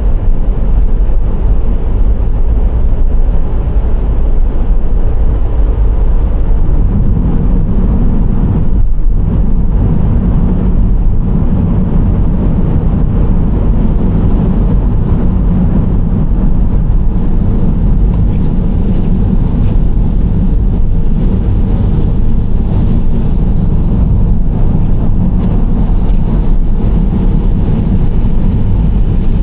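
Nissan Serena C25 minivan driving: a steady, deep road and engine rumble that grows a little heavier about seven seconds in, with a faint higher hiss joining in the second half.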